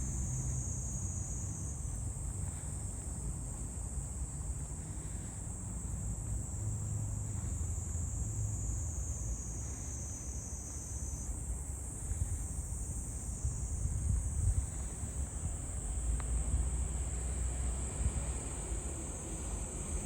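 Steady, high-pitched insect chorus that shifts slightly in pitch now and then, over a constant low rumble.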